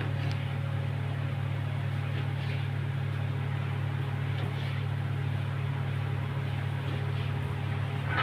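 A steady low-pitched drone, like a running motor or engine, with faint small clicks and rustling above it.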